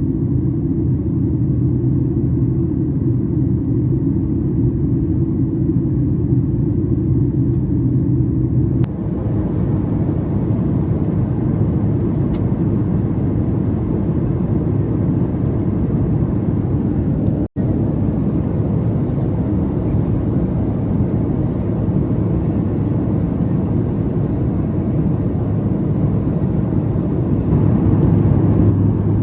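Steady in-flight cabin noise of a Boeing 737 MAX 8 airliner: a constant airflow roar with a low engine drone. The sound changes abruptly about nine seconds in, cuts out for an instant around seventeen seconds, and the drone's pitch shifts near the end.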